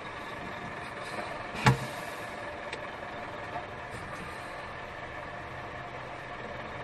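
Scania lorry's diesel engine running steadily at low revs, heard from inside the cab, with one sharp click about a second and a half in.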